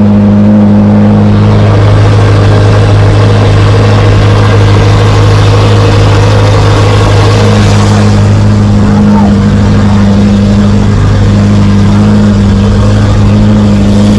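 Car engine running steadily with a loud, deep drone that holds the same pitch throughout, recorded so loud that it overloads the microphone.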